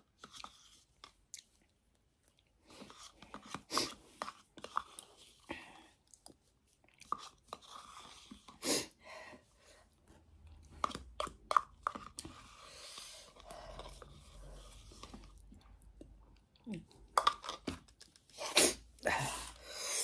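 Close-up mouth sounds of a person eating: chewing with wet lip smacks and clicks, coming in irregular clusters with short pauses between mouthfuls.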